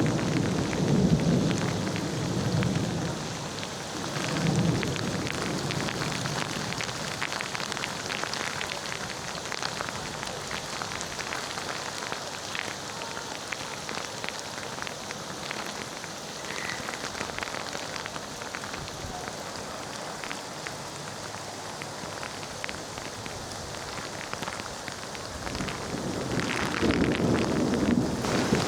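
Steady rain falling, with many fine drop patters. Rolling thunder rumbles at the start, fades over the first few seconds, and another rumble builds near the end.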